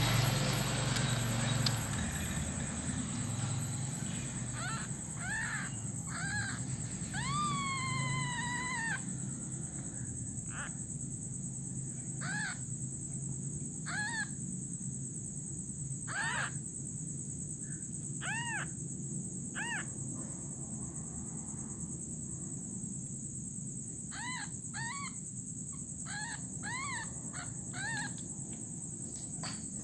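A young animal crying over and over in short, high, arching calls, in clusters, with one longer drawn-out call about eight seconds in. A steady high insect buzz runs behind.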